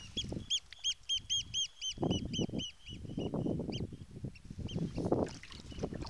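A bird's rapid high piping calls, about five a second, thinning out and stopping about four seconds in, over the swish and splash of kayak paddle strokes in the water.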